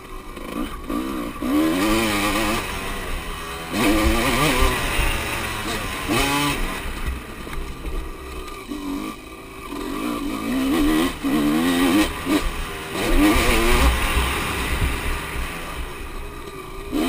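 Motocross motorcycles running and revving, the engine pitch rising and falling again and again with the throttle in several bouts.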